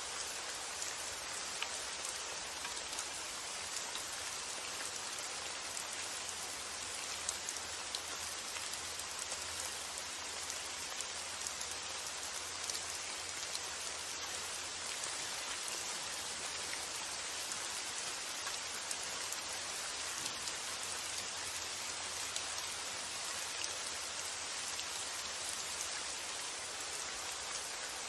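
Steady rain falling, a dense, even patter with many small individual drop hits, holding constant throughout.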